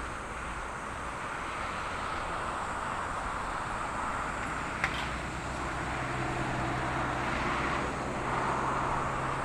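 Airbus A330-200 jet airliner on approach to land, its engine noise a steady rush. A low hum joins about five seconds in, and there is a single sharp click just before it.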